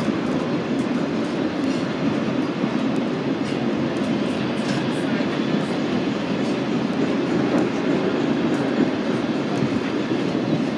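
A passenger train rolling on rails: a steady rumble of wheels on track with a few faint clicks.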